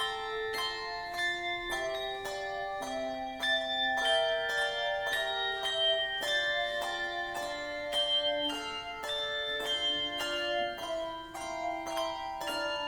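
Tuned bells playing a melody: struck notes about three a second, each ringing on under the next.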